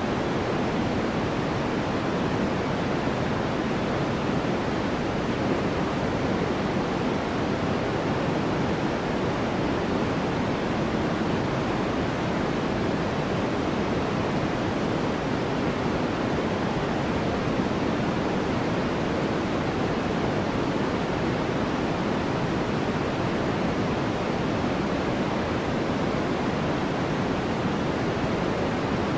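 Continuous sleep noise, sold as white noise: an even, unchanging hiss, fuller in the low and middle range than at the top.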